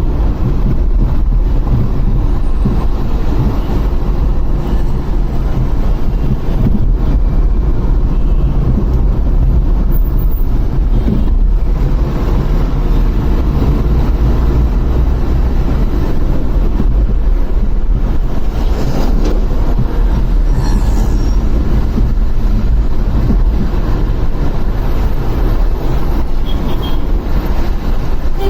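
Steady rumble of wind on the microphone and road noise from a motorcycle riding through traffic, heaviest in the low end.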